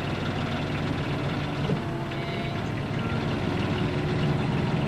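Diesel engine of a miniature-railway locomotive running steadily with a low hum, a Perkins power plant driving a diesel-hydraulic transmission.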